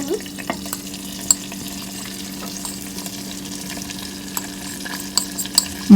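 Food frying in hot oil in the cooking pot: a faint, steady sizzle with scattered small crackles, over a steady low electrical hum.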